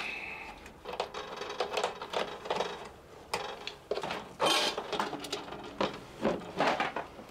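Irregular clicks, taps and light clattering of an electronic device's casing and parts being handled and worked on by hand.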